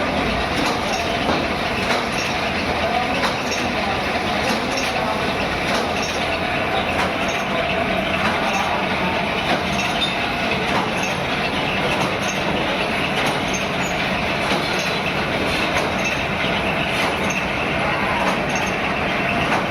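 Steady factory machinery noise with a faint steady tone running under it and small irregular ticks, from the metalworking machines of a wire kitchen-rack workshop.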